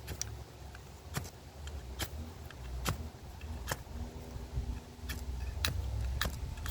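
Pocket knife's ferro rod struck again and again to throw sparks, about eight short, sharp scrapes under a second apart, over a steady low rumble.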